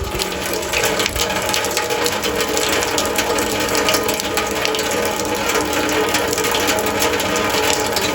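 Rain pattering steadily, a dense crackle of drops hitting hard surfaces.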